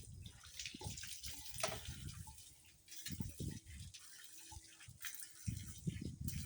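Water from a tap splashing in a sink while things are handled in it, with irregular dull knocks and thumps.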